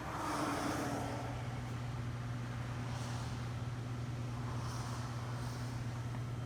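Ceiling fan running: a steady low electric motor hum with a faint airy hiss that swells now and then.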